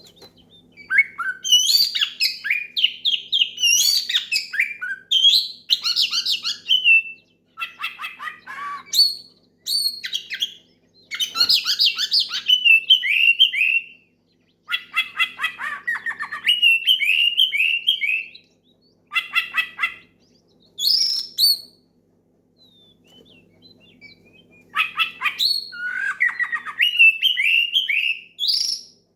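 Oriental magpie-robin (kacer) singing loudly in runs of rich whistles, chirps and rattling notes, the phrases coming in bursts of a few seconds with short pauses between them.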